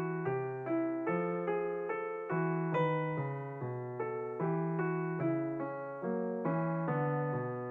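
Background music: a solo piano playing a slow, even pattern of notes, about two a second, each note fading before the next.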